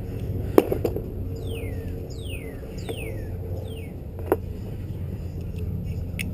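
Two sharp metal clicks, about half a second in and again past four seconds, as a motorcycle rear-set part is handled and fitted back in place. Between them a bird outside gives a quick run of falling chirps, over a steady low hum.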